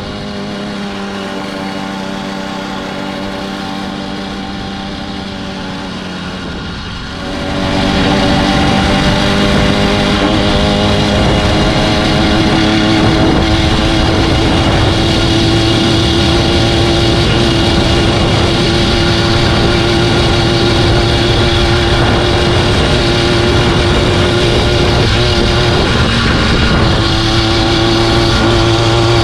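Chinese 80cc two-stroke engine on a motorized bicycle running at a steady low speed, then revving up about seven seconds in and pulling with a slowly rising pitch under a rush of noise. The pitch dips briefly near the end, then picks up again.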